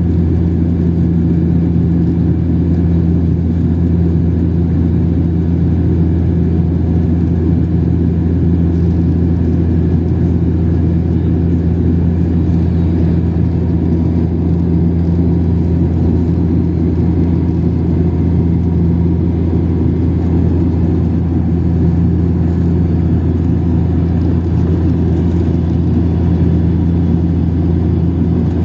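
Steady drone of an airliner's engines heard inside the passenger cabin in flight: a constant low hum over an even rumble, with no change in pitch or level.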